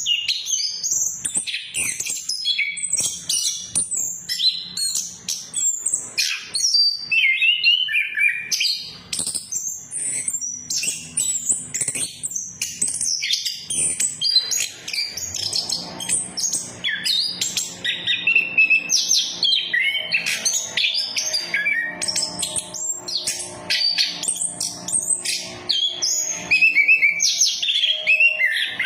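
Chestnut-capped thrush (anis kembang) singing continuously in a fast, varied run of chirps and whistles, used as a lure song to coax a silent bird into singing. Faint steady low tones sit under the song from about halfway through.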